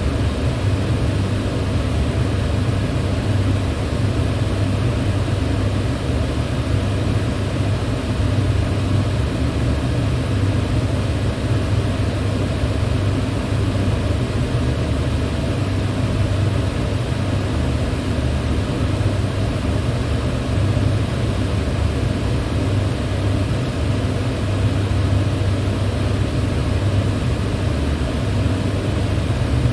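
Electric fan running steadily: an even rushing of air over a low motor hum, with no change.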